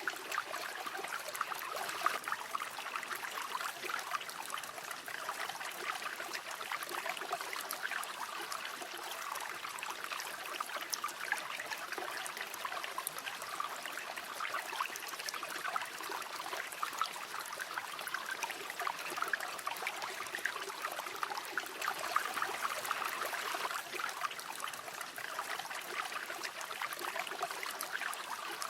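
A shallow river running steadily over stones, with a continuous babbling and trickling.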